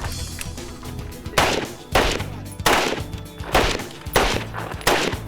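Gunfire: about six single shots at uneven spacing, under a second apart, each with a short ring.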